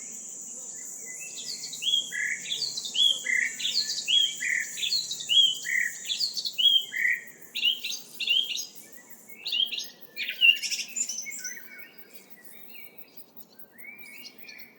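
Birds chirping and singing: quick series of short, sweeping chirp notes, busiest and loudest through the middle and thinning out near the end. Under them a steady high hiss runs until about two-thirds through.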